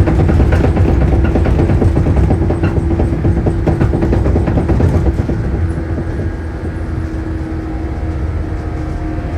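Shinano Railway 115 series electric train running, heard from inside the car: a loud low rumble with a rapid rattle of wheels on rail and a steady hum. About halfway through the noise drops a little and turns smoother, with a few steady tones showing.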